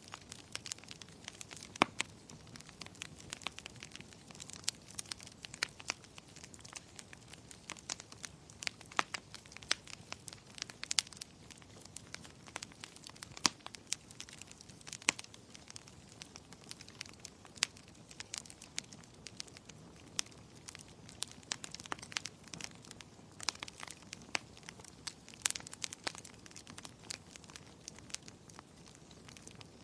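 Firewood burning in a fireplace, crackling with frequent irregular sharp pops over a low steady hiss of the flames.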